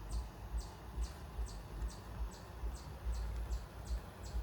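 A chirping insect calling in a steady series of short, high chirps, about two a second, each dropping slightly in pitch, over a low rumble.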